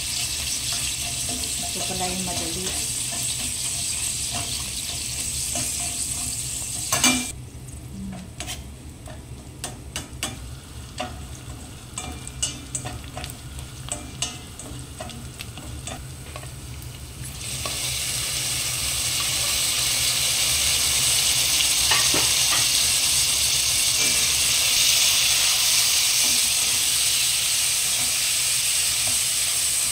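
Sliced onions and garlic sizzling in hot oil in a stainless steel pan, stirred and scraped with a slotted spatula. About seven seconds in, the sizzle drops away, leaving scattered taps and scrapes of the spatula on the pan. Around eighteen seconds in, the sizzle comes back louder and steady.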